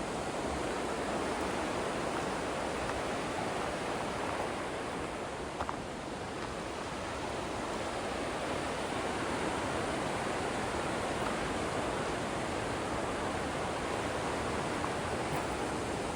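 Steady rushing of river rapids, a constant even roar of white water.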